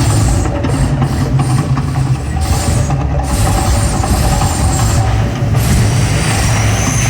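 Mirage volcano show: a loud, steady deep rumble.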